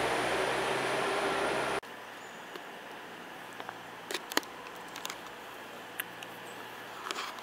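A Northern passenger multiple unit running in alongside the platform, a loud steady rumble with a low hum, cut off abruptly just under two seconds in. After that only faint station background with a few sharp clicks.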